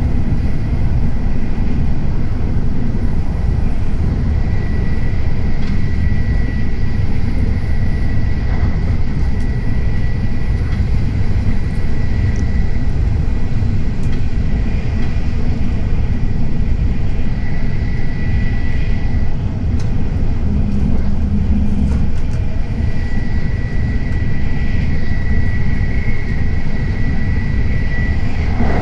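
Tokaido Shinkansen train running, heard on board: a steady low rumble of wheels and running gear, with a thin high whine that comes and goes.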